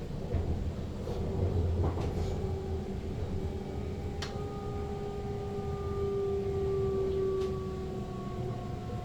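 SLT electric multiple unit running on the rails with a low rumble, its traction motors whining in a few tones that slowly fall in pitch from about a second and a half in, as the train slows. A few sharp clicks come through over the rumble.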